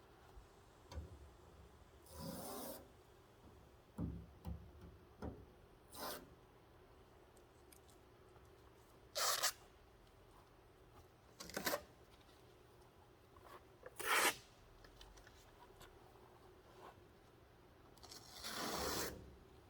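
Masking tape and paper being ripped off a truck's painted body in short tearing strokes, about seven of them with pauses between, and a few small knocks in between.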